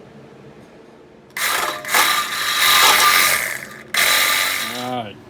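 A 1/2-inch electric drill cutting into the metal of a UTV exhaust outlet, a loud grinding with a steady whine. It runs for about two and a half seconds, stops briefly, then runs for about another second.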